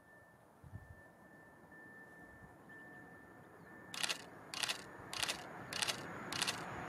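A train approaching, its noise slowly growing. About four seconds in, a sharp, regular clacking starts, about three strikes every two seconds, getting louder.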